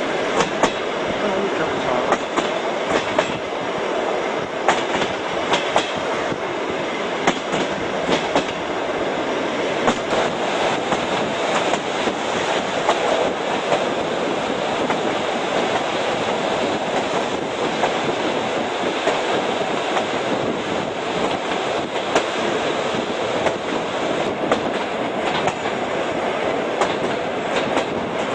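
Trans-Siberian passenger train running at speed: a steady rumble and rush of wheels on the track, with irregular sharp clicks of the wheels passing over rail joints.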